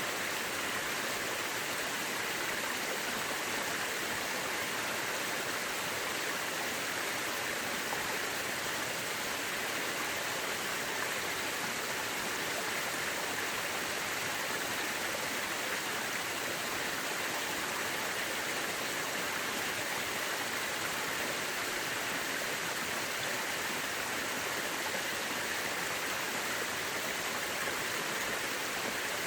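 Mountain river rushing and splashing over rocks, a steady, even rush of water with no breaks.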